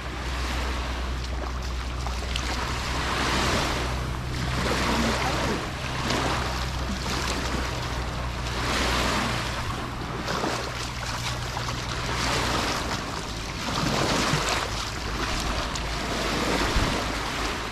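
Sea waves washing onto a beach, swelling and falling back every two to three seconds. A low steady hum lies underneath and stops about two-thirds of the way through.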